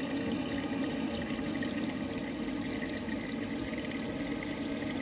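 Rak toilet cistern's fill valve running, water rushing steadily into the cistern as it refills, with a steady low hum under the hiss.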